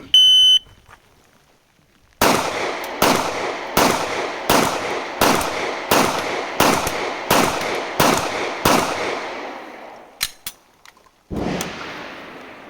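A shot timer beeps once, and about two seconds later a Glock 17 9mm pistol fires ten shots at an even pace, roughly three shots every two seconds, each with a short echoing tail. A few light clicks and a louder thud follow near the end.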